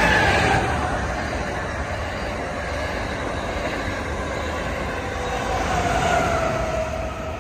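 Amtrak Acela high-speed electric trainset passing at speed: a steady rumble of wheels on rail, with a whine that slides slowly down in pitch. It is loudest at the start and again about six seconds in.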